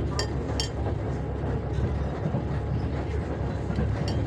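Steady low rumble of a passenger train carriage in motion, heard from inside, with a few short sharp clicks near the start and again near the end.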